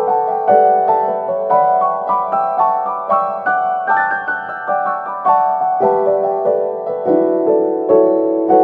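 Background piano music: a gentle run of single notes over held chords, several notes a second.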